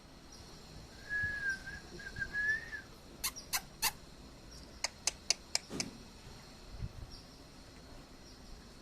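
A parrot gives a wavering whistle lasting about two seconds, then two quick runs of short sharp sounds, three and then five. Insects chirr steadily underneath.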